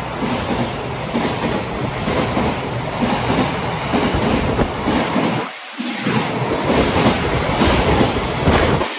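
Freight train's container wagons passing at speed, steel wheels clattering in a steady run of clacks over the rail joints amid a loud rolling rush. The noise dips briefly about five and a half seconds in.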